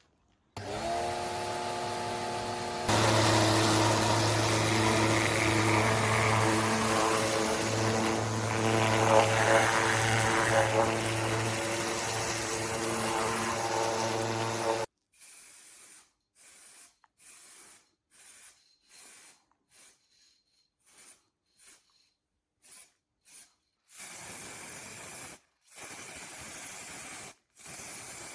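A power tool spins up, runs steadily for about fourteen seconds, then cuts off suddenly. Short bursts of noise with silences between them follow.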